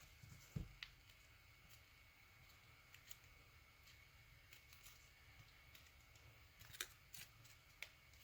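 Faint, scattered crinkles and clicks of paper being folded and creased by hand, a handful of small sharp ones about a second in and again near the end, over a faint steady high-pitched whine.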